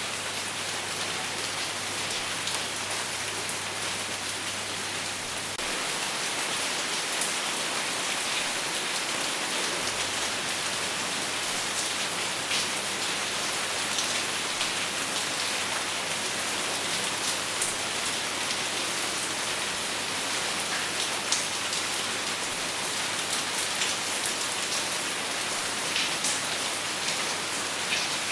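Steady rain falling on a surface, with no thunder, and scattered louder individual drop hits. It gets slightly louder about five seconds in.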